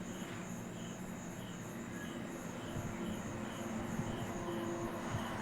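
Crickets chirping in an even, repeating rhythm at night, over a low steady hum that grows louder near the end.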